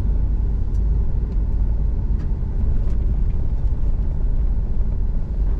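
A vehicle driving slowly, heard from inside the cab: a steady low road and engine rumble, with a few faint ticks scattered through it.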